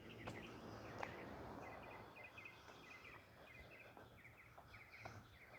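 Near-silent outdoor background with faint, quick chirps repeating about three times a second, starting about a second and a half in, from a small bird or insect.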